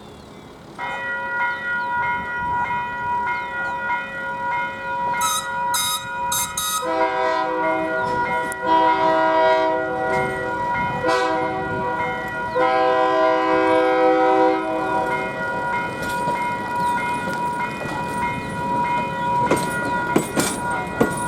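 The horn of a Morristown & Erie GP15-1 diesel locomotive sounding four blasts, long, long, short, long: the grade-crossing signal. A bell rings steadily underneath from about a second in.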